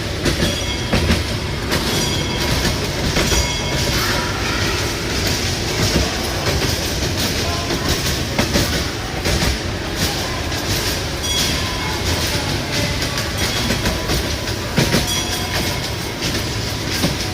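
Train running along the track: a steady rumble with wheels clattering over the rails and brief high squeaks now and then.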